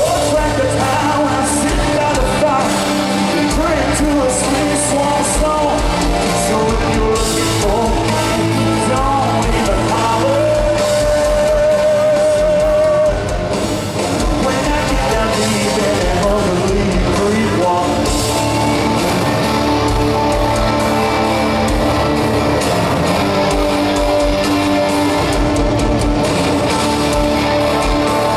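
Live country-rock band performing: electric guitars over a steady drum beat, with singing and crowd shouts mixed in. About halfway through, a note is held with a wavering pitch.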